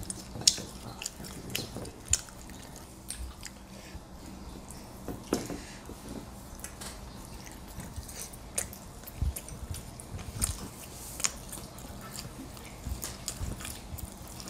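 People chewing bites of slow-roasted tri-tip beef, with irregular soft clicks and smacks of mouths and teeth.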